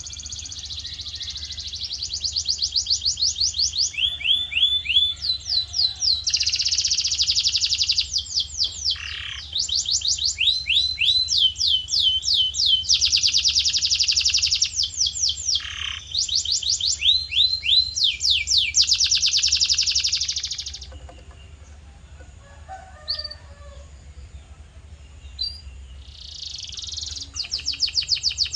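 Male canary song: fast trills of repeated sweeping notes and buzzy rolls in quick succession, breaking off for a few seconds near the end before trilling again, over a low steady hum.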